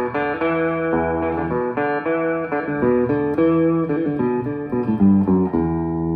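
Electric guitar played through an original 1970s Traynor YGM-4 25-watt amp with four 8-inch Marsland speakers: a run of plucked chords and single notes, each changing after a fraction of a second.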